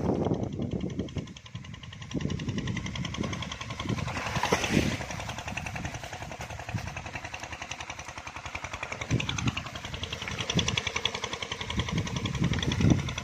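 An engine running steadily with a rapid, even chugging rhythm, swelling briefly about four and a half seconds in.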